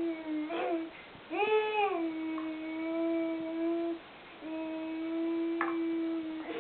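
A high voice humming long, steady held notes, three in a row. The second note opens with a quick swoop up and back down in pitch about a second in.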